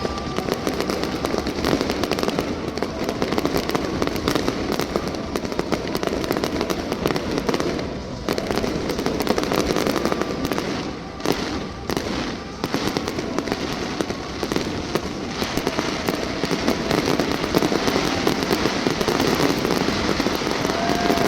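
Fireworks display going off continuously: dense, rapid pops and crackling with no break, briefly thinning about eight and eleven seconds in.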